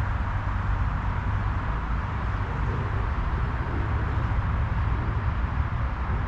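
Wind blowing steadily, with a low rumble from wind on the microphone.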